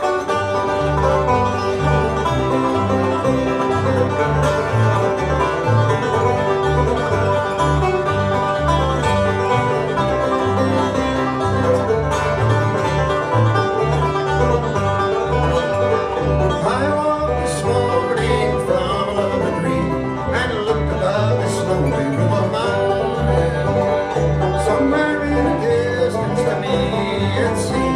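Live bluegrass band playing an instrumental opening: two banjos picking rolls over guitar and a bass thumping out alternating notes on the beat.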